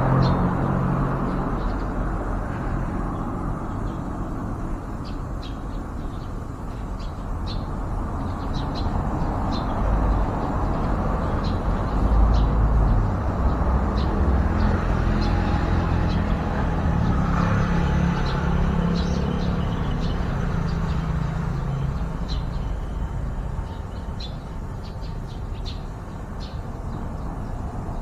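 Steady low rumble of traffic, swelling a little twice, with many short, high bird chirps scattered throughout.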